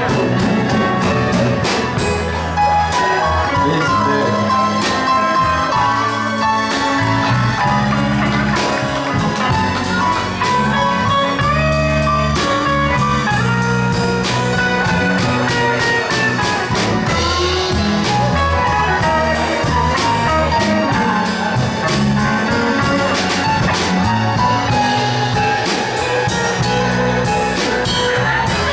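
Live band playing an instrumental break of a slow pop ballad, with lead guitar over bass and a steady drum beat.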